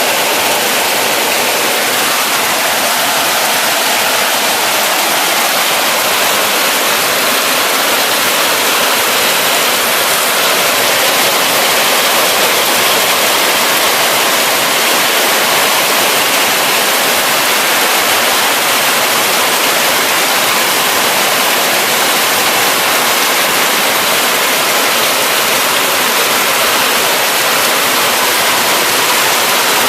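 Heavy rain falling in a steady, dense hiss, with no thunder.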